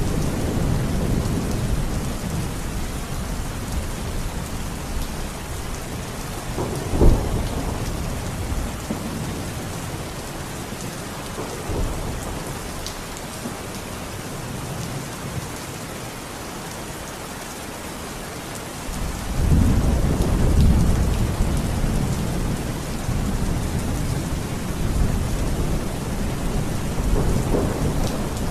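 Thunderstorm: steady heavy rain hissing, with rolling thunder. There is a sharp thunderclap about seven seconds in and a long rumble starting about two-thirds of the way through.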